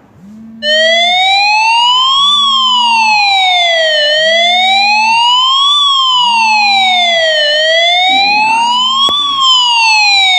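Phone ringing with a siren-style ringtone: an electronic wail that sweeps steadily up and down about every three and a half seconds, over a short low beep repeating under it, starting about a second in.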